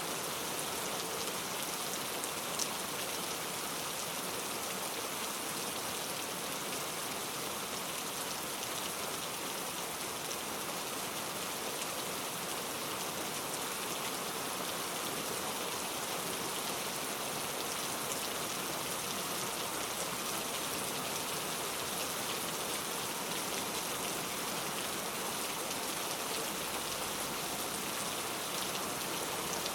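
Steady heavy rain falling, an even hiss with scattered individual drops ticking, and no thunder.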